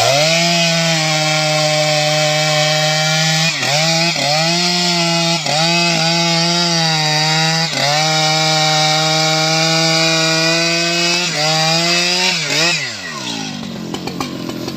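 STIHL MS 881 two-stroke chainsaw running at full throttle while cutting teak, its pitch dipping briefly several times as the chain bites into the wood. Near the end the throttle is released and the engine winds down with a falling pitch.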